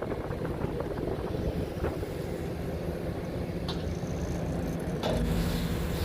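Heavy construction machinery running steadily, an excavator's diesel engine with wind buffeting the microphone. It gets louder and fuller about five seconds in.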